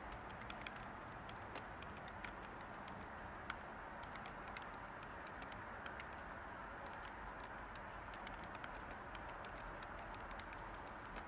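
Light computer-keyboard typing, irregular soft key clicks, over a steady white-noise hiss.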